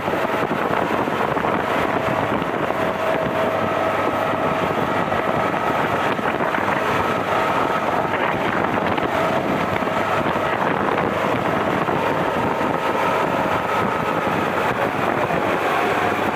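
A vehicle running steadily under heavy wind noise on the microphone, with a faint steady whine.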